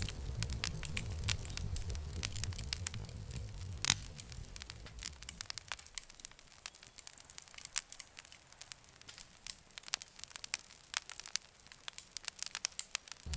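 Campfire crackling, a dense run of sharp snaps and pops with one louder pop about four seconds in. Under it is a low rumble of the flames that drops away about halfway through.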